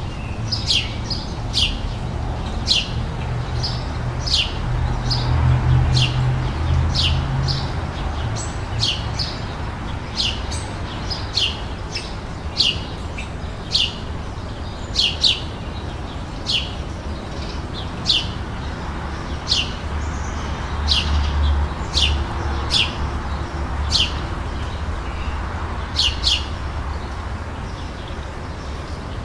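Birds chirping: short, sharp, downward-sweeping chirps repeated about once or twice a second, over a steady low rumble.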